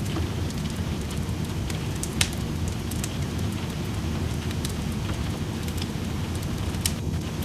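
Wood fire crackling in a fireplace, with scattered sharp pops (a louder one about two seconds in), over a steady wash of rain.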